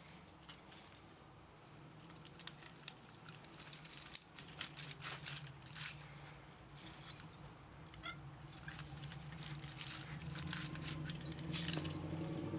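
Irregular small clicks, scrapes and crinkling from scrap metal parts and wire being worked by hand while an electric motor is stripped. A low hum in the background grows louder near the end.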